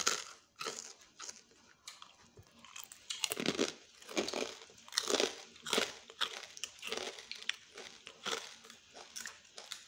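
Close-up eating sounds: a person biting and chewing crisp food, with irregular crunches every half second to second as she eats raw green vegetable stalks with fried fish.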